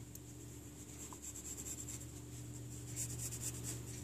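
Faint scratchy strokes of a drawing tool on paper, coming in short irregular runs, over a steady low electrical hum.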